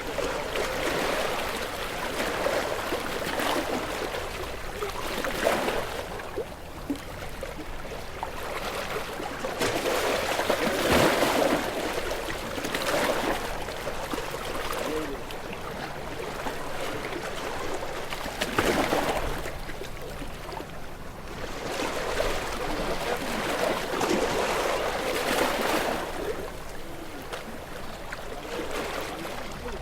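Ocean waves washing ashore, each surge of hiss and wash swelling and fading every few seconds in an uneven rhythm.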